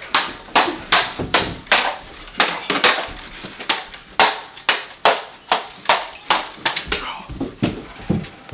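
A rapid run of sharp knocks and blows, about two to three a second, each ringing briefly, with no let-up.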